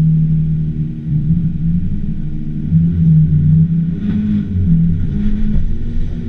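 Nissan Skyline R34 GT-R's twin-turbo straight-six running at low revs, its note rising and falling as the throttle is worked.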